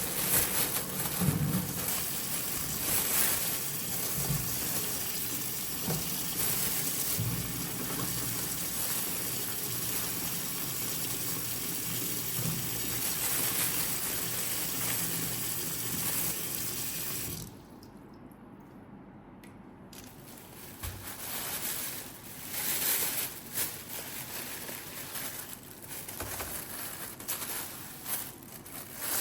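Kitchen tap running water into a sink, a steady rush that cuts off suddenly about two-thirds of the way through, followed by scattered light handling noises.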